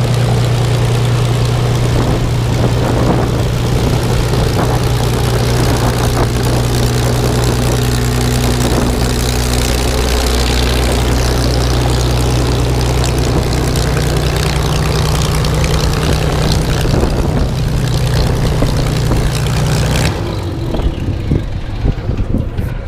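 Propeller aircraft's piston engine running steadily at low power, then shut down about 20 seconds in, the drone cutting off suddenly.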